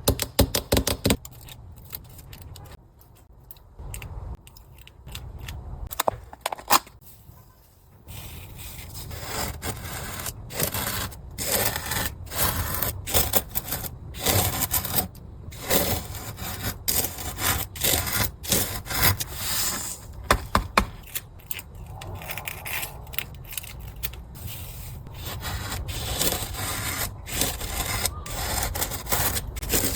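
Fingers scraping and rubbing sand across a sand-painting board in quick, irregular strokes. The strokes are sparse and quieter for the first several seconds, then dense from about eight seconds in.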